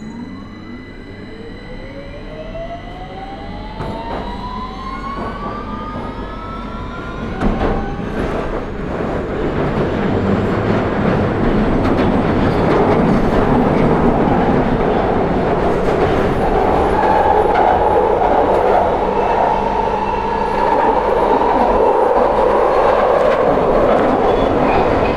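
London Underground 2009 Stock (Bombardier Movia) accelerating away from a station: the traction motors and inverters whine in several tones that rise in pitch together over the first eight seconds or so, while the wheel and rail noise builds. A knock about seven seconds in, then the train settles into a steady loud running rumble at speed.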